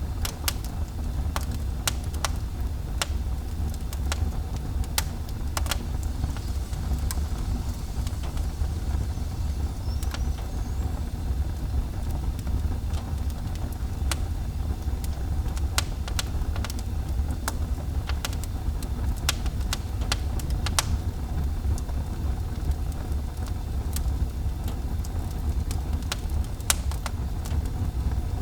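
Fire burning in a fireplace: a steady low rumble of the flames with frequent sharp, irregular crackles and pops.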